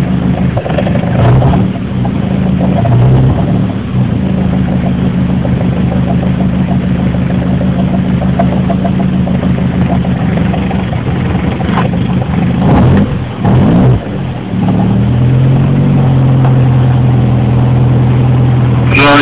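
Car engine idling steadily, a low even hum. About two-thirds of the way through it is briefly broken by some irregular noise, then the engine note settles again at a slightly changed pitch.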